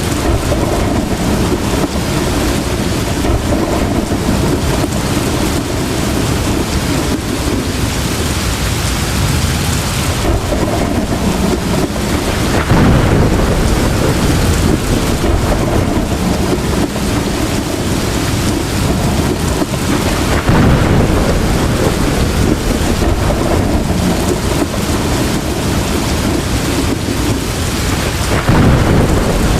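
Heavy rain falling steadily, with thunder rumbling in three swells: about twelve seconds in, about twenty seconds in, and near the end.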